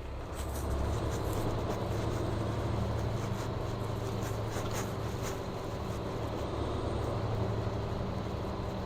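Vehicle engine hum and road noise heard from inside a moving vehicle on snowy roads, steady throughout, with a few short ticks in the first half.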